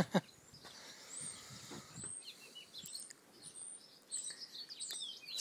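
Faint, scattered bird chirps: short high whistles, several of them, over faint background noise.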